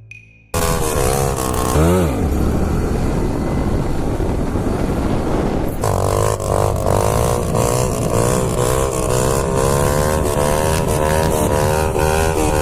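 Motorcycle engine under way, starting abruptly: a quick rev up and back about two seconds in, then a steady, slightly wavering drone at cruising speed over a constant rushing noise.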